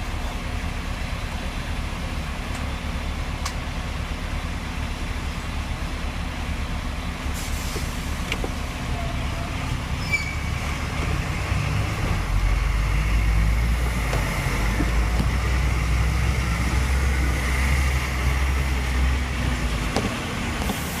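Hong Kong double-decker tram running along its street track, heard from on board: a steady low rumble of motor and wheels on rails that grows louder about twelve seconds in, with a few light clicks.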